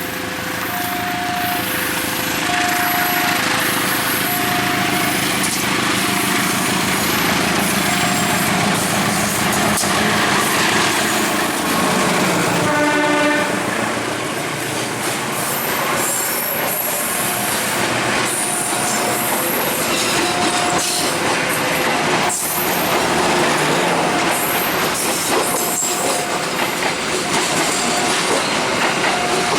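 A train passing close by with the rumble and clatter of its wheels on the rails, and one short horn blast about 13 seconds in. Over it a warning signal alternates steadily between two tones, about one every one and a half seconds, typical of a railway level-crossing alarm.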